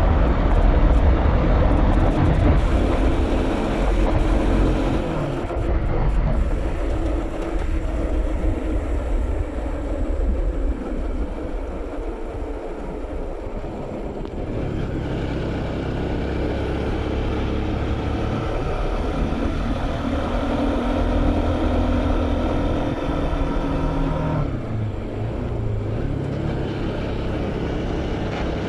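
Bajaj Pulsar NS200's single-cylinder engine running under way as the motorcycle is ridden, its note rising and falling with the throttle.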